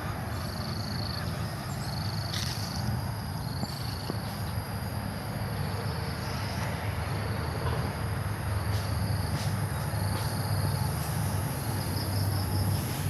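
Nakamura TB33 two-stroke brush cutter engine running steadily while cutting grass, with insects chirping in short high bursts.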